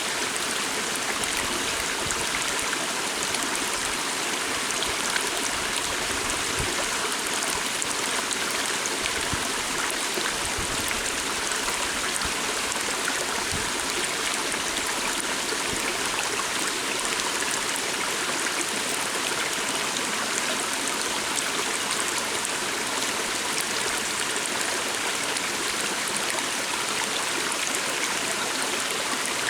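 Stream of water flowing steadily.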